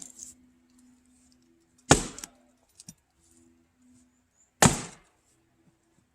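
Axe splitting firewood: two sharp strikes into a large log, about two and a half seconds apart, each trailing off briefly.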